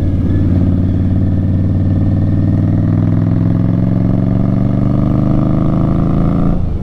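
2018 Indian Scout Bobber's V-twin running through Vance & Hines slash-cut exhaust while riding, loud and deep. Its note climbs slowly as the bike pulls, then drops off near the end.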